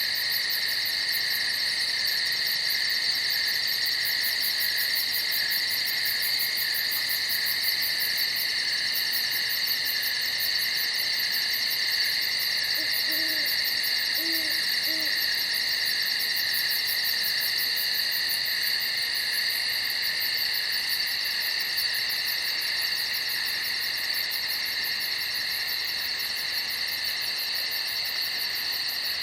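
Night chorus of crickets: a steady, dense trill in several pitches with a fast pulsing high buzz over it. About halfway through come three short low hoots.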